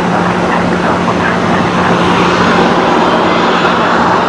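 Jet engines of an Airbus A321-211 airliner running loud and steady as it passes close by on the runway, a continuous roar with a steady low hum under it.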